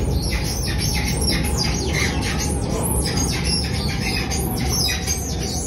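Alstom Movia R151 MRT train running, heard from inside the car: a rapid, irregular run of short, high-pitched squeaks over the steady low rumble of the moving train.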